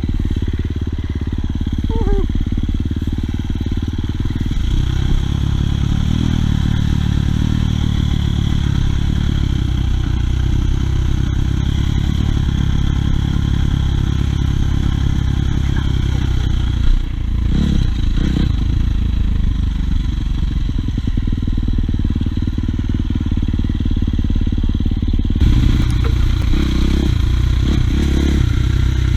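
Dirt bike engine running under way, its revs rising and falling, heavy and muffled in the low end. The sound changes abruptly about 25 seconds in.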